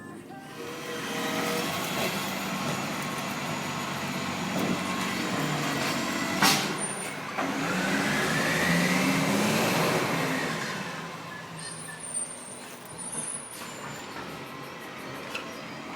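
Rubbish truck running, its engine revving up and falling back around the middle, with a sharp clank about six and a half seconds in and short high hisses of air.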